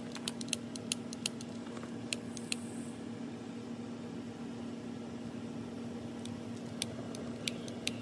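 Long-nosed utility lighter clicking as it is held to charcoal briquettes soaked in lighter fluid to light them: a quick run of sharp clicks over the first couple of seconds, then three more near the end. A steady low hum runs underneath.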